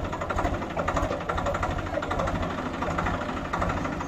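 Swaraj 744 FE tractor's diesel engine running with a steady, rapid beat.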